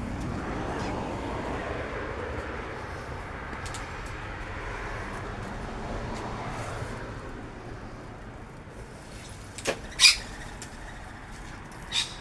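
A passing motor vehicle swells and fades over the first several seconds. Near the end come three short, sharp sounds, the second the loudest.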